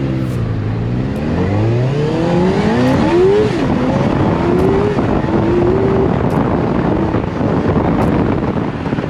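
Suzuki GSX-R 600 motorcycle engine in a road kart accelerating hard: revs climb steeply, drop sharply with an upshift about three and a half seconds in, then rise again and hold.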